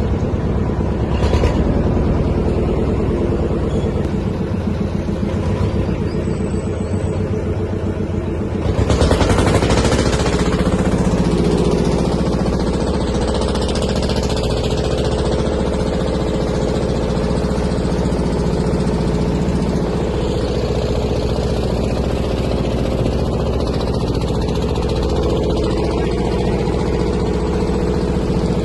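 Motor boat engine running steadily. About nine seconds in it surges briefly and then runs louder and fuller.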